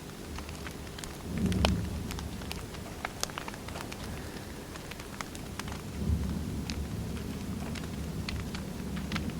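Wood fire crackling, with scattered sharp pops and snaps over a steady hiss. A low rumble of the flames swells up about a second in and again around six seconds in.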